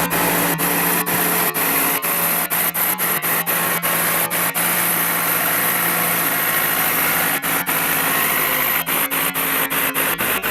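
Diesel engine of a heavy earthmoving machine running steadily with an even, unbroken drone.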